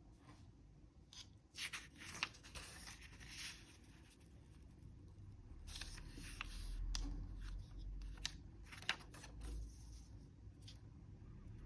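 A sheet of origami paper being handled and folded, rustling and crinkling in short irregular bursts, with a few sharp clicks as creases are pressed.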